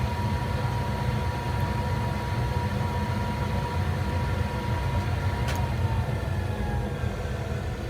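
Lathe drive running with a steady low hum and a thin whine; a click about five and a half seconds in, after which the whine falls in pitch and fades as the motor winds down.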